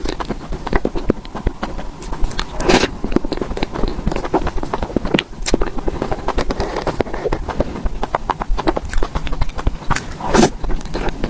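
Close-up eating sounds of creamy cake being chewed: a dense run of wet mouth clicks and smacking, with a couple of louder, longer smacking or slurping sounds about two and a half seconds in and near the end.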